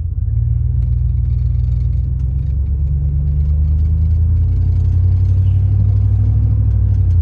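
Truck with a freshly rebuilt 4L60E automatic transmission on a test drive: the engine is running under way with a loud, low drone that builds slowly as the truck gathers speed.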